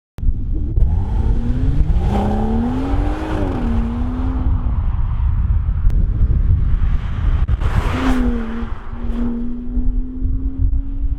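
BMW B58 turbocharged straight-six exhaust: the engine pulls with its pitch rising over about two seconds, then falls back. After a short loud rush about eight seconds in, it holds a steady drone under heavy low rumble.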